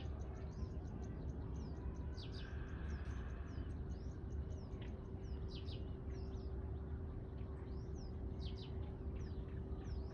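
Several songbirds chirping and calling, with many short, quick notes and sweeping whistles, over a steady low rumble.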